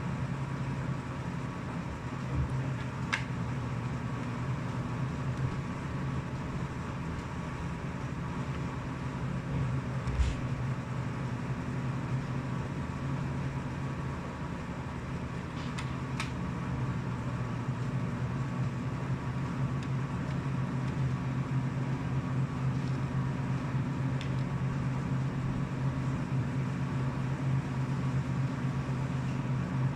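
Steady low mechanical hum throughout, with a few faint clicks about 3, 10 and 16 seconds in.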